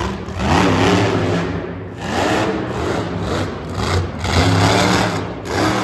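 Monster truck engine revved in four bursts, each rising in pitch, over a steady low rumble.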